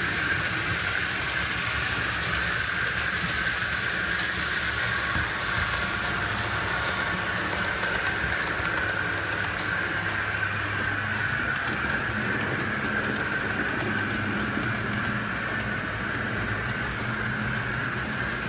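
OO gauge model train running along the track, a steady running noise of the locomotive's motor and wheels on the rails that rises and falls slightly in pitch.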